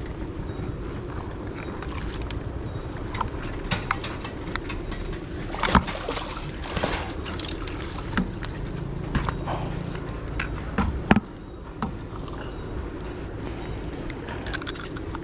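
Water splashing and sloshing in short irregular bursts, with a few sharp knocks, as a fish is handled at the water's edge, over a steady low hum.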